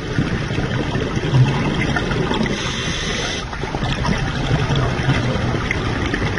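Scuba diver breathing through a regulator underwater: a hissing inhale of about a second midway through, between stretches of bubbling from exhaled air.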